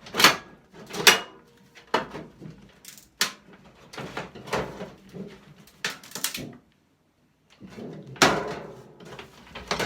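Clanks, knocks and scrapes of sheet-steel microwave oven parts being worked loose and handled by hand, about one sharp knock a second with scraping between them and a brief silent gap past the middle.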